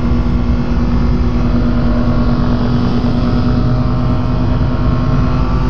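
Rotax engine of a Quad City Challenger ultralight running steadily, with wind rushing over the open-cockpit microphone.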